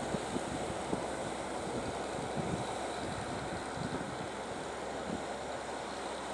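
Sea surf washing steadily, with wind buffeting the microphone in many small low thuds.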